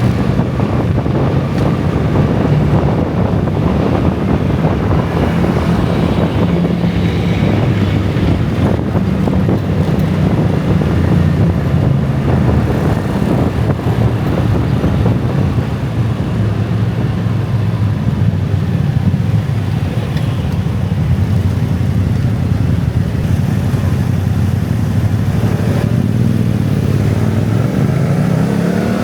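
Dense rush-hour traffic of motor scooters and cars running steadily together, a thick mix of many small engines. Near the end one engine rises in pitch as it accelerates.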